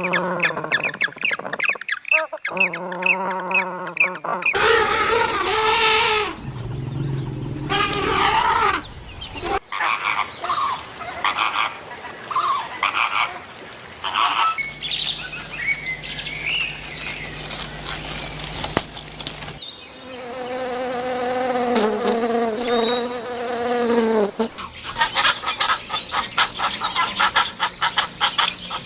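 A run of different real animal calls, a new animal every few seconds, most of them pitched cries and chirps.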